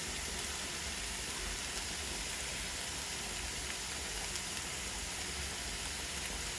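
Onions, bell peppers and carrots frying in margarine in a pan, sizzling steadily with a few faint crackles.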